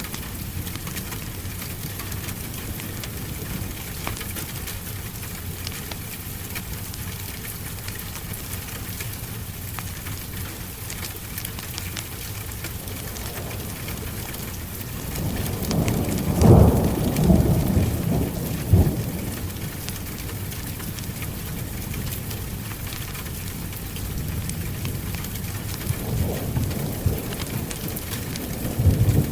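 Heavy rain falling steadily in a thunderstorm. About halfway through, a roll of thunder swells to a sharp peak and rumbles on for a few seconds, and another low rumble of thunder builds near the end.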